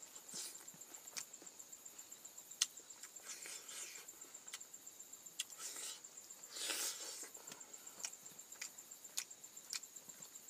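Close-up mouth sounds of eating by hand: wet chewing clicks and lip smacks, with a louder smacking mouthful about seven seconds in. Behind it an insect trills steadily at a high pitch.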